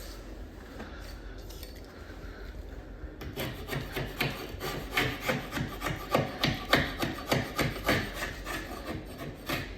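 Scraper rasping back and forth over a water-stained wooden cabinet door to take off a black stain, a quick run of short strokes, about three a second, starting about three seconds in.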